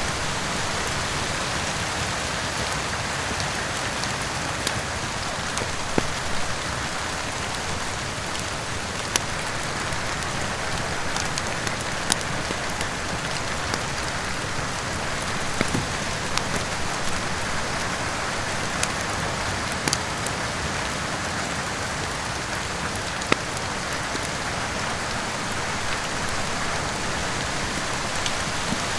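Steady rain, with scattered sharp pops and crackles from a wood fire every few seconds.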